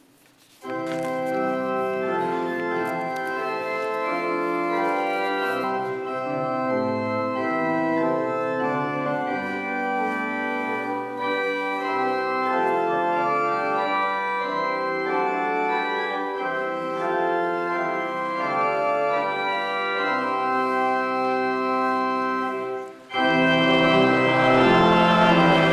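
Organ playing a hymn in sustained, changing chords. It starts about a second in, breaks off briefly near the end, and comes back louder and fuller.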